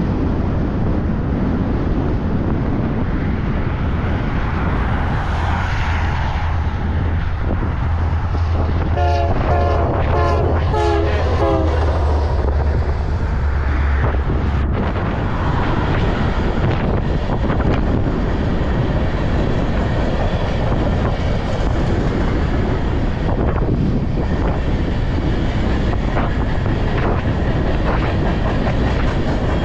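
A freight train's diesel locomotive passes with a low engine drone, and its horn gives a series of short blasts about nine to twelve seconds in. After that comes the steady rumble and clatter of covered hopper cars rolling by.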